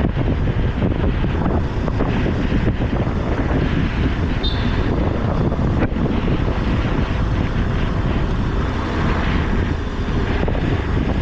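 Wind buffeting the microphone over the steady engine and road noise of a motorcycle on the move.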